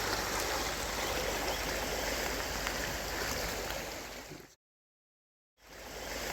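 Creek water running steadily. About four seconds in it fades out to dead silence for about a second, then fades back in.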